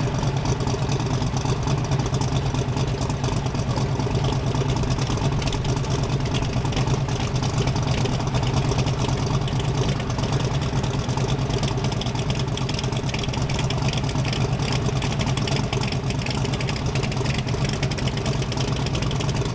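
Car engine idling steadily, a fast, even rumble with no revving.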